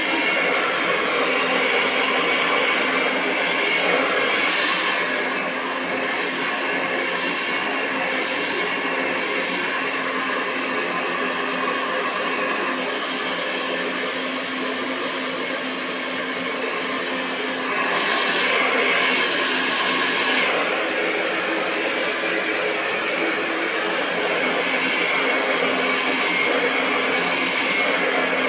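Hair dryer running continuously: a steady rush of air over a constant motor hum. The hiss grows brighter and slightly louder twice, once about four seconds in and again about two-thirds of the way through.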